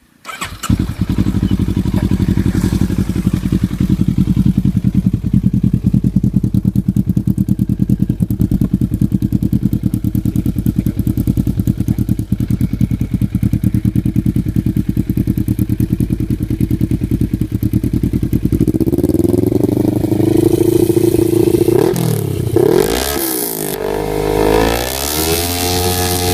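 Kawasaki ER-6n parallel-twin motorcycle engine through a custom undertail dual exhaust, starting about half a second in and idling steadily. Late on it is revved several times, the pitch rising and falling with each blip of the throttle.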